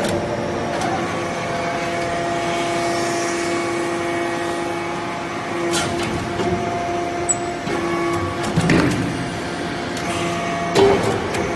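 Hydraulic metal swarf baler running with a steady machine hum, with a few sharp metallic knocks.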